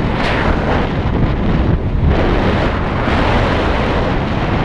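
Loud, steady rush of wind over the microphone in flight under a paraglider, with a heavy low buffeting rumble.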